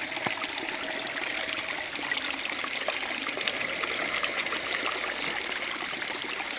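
Small waterfall: water trickling and splashing steadily over rocks.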